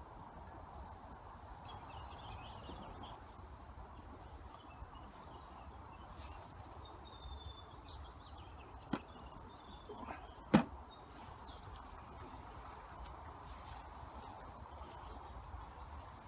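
Small birds chirping over steady outdoor background noise, with two sharp knocks just past halfway, a second and a half apart, the second one the loudest.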